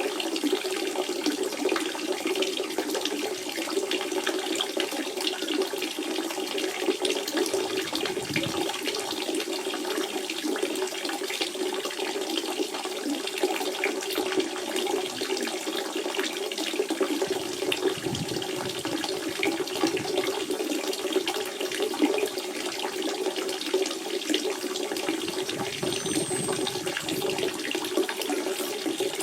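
Spring water running steadily over rocks, a continuous splashing trickle with a low gurgling band.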